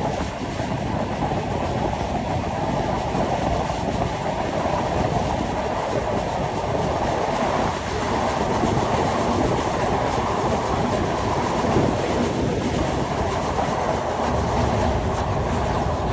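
Train running on the Dhaka-Mawa elevated railway: a steady rumble of wheels on the rails, even in level throughout.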